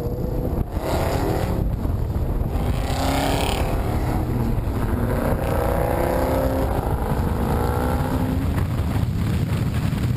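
Engine of a 2015 Dodge Charger R/T Road & Track, a 5.7-litre HEMI V8, pulling away at low speed, its pitch rising and falling with the throttle. A steady low rumble of wind on the hood-mounted camera's microphone runs under it.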